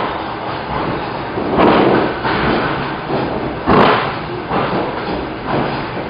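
Inside an electric commuter train car: a steady running rumble, broken by loud thuds about two seconds apart.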